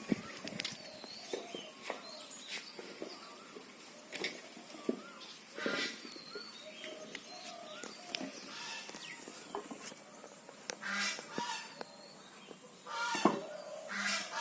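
Birds calling: short chirps and scattered clicks, with a few louder honk-like calls, the strongest near the end.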